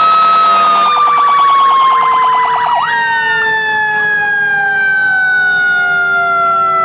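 Several fire truck sirens sounding at once: steady wailing tones that slowly slide down in pitch, with a rapid warble over the first couple of seconds and a quick swoop down and back up a little under three seconds in.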